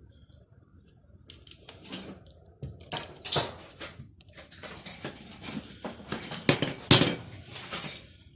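Metal clinking, rattling and knocking of screws and tools being handled on a motor: fairly quiet at first, then a busy run of sharp clicks and knocks from about two and a half seconds in.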